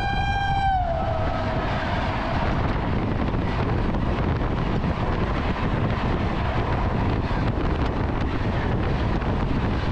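Horn of an oncoming WAP-7 electric locomotive, a steady multi-tone blast whose pitch drops as the locomotive passes about a second in. After that comes a loud, steady rush of wind and rail noise as its coaches speed by close alongside, heard from the open door of a moving train.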